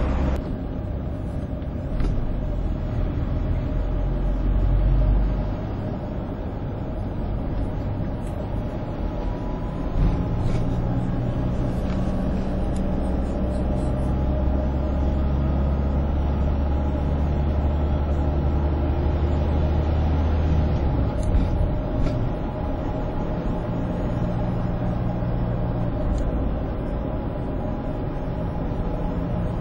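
Steady low rumble of heavy highway traffic, trucks and buses, with engine hum and road noise. The deep engine drone shifts several times and is strongest from about ten to twenty seconds in.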